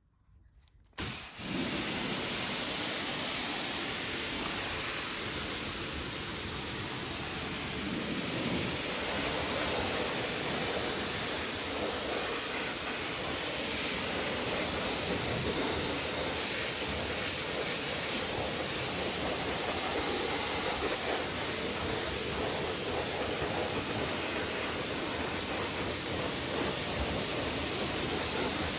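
Steady hiss of water spraying onto a car's paintwork, starting suddenly about a second in and running evenly.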